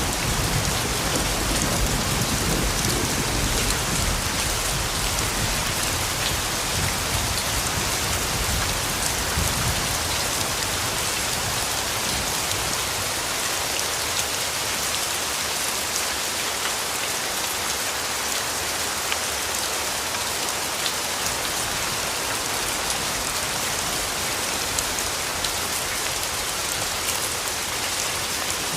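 Steady rainfall: a dense, even hiss of drops falling on a surface, with individual drop ticks through it. A low rumble of distant thunder runs through roughly the first third and fades away.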